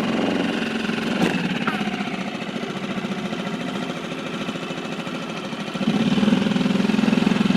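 Outboard motor running steadily at idle, getting louder about six seconds in.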